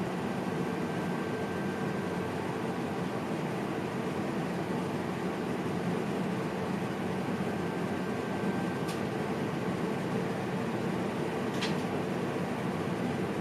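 Steady running noise inside the cab of an NS VIRM double-deck electric train, with a thin high tone through the first half and two short ticks in the second half.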